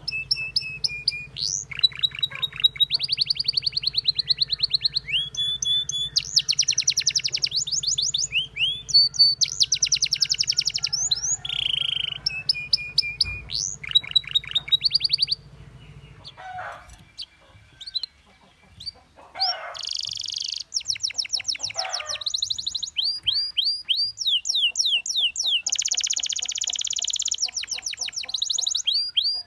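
Domestic canary song: fast trills and rolls of rapidly repeated notes, some gliding down in pitch, with a soft break of a few seconds just past the middle before the song resumes. A steady low hum lies under the first half and stops partway through.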